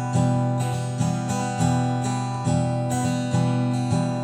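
Acoustic guitar strumming chords in an instrumental break between sung lines, a chord struck roughly every second.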